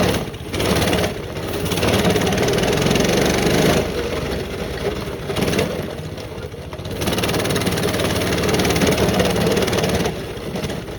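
Small mini bike engine running as the bike is ridden over a bumpy dirt trail, getting louder under throttle, easing off for a few seconds mid-way, then pulling hard again.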